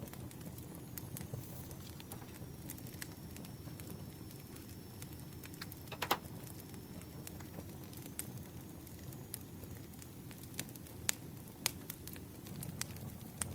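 Campfire crackling: a steady low rumble of burning with scattered sharp pops, the strongest about six seconds in. A faint thin high tone runs underneath for several seconds.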